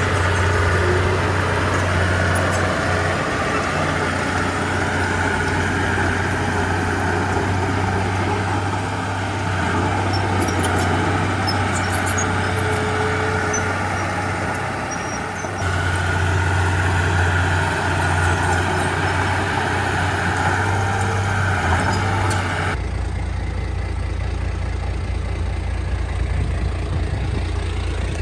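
A heavy diesel engine on earthmoving machinery runs steadily with a strong low drone. About 23 s in the sound changes abruptly to a duller, lower engine sound.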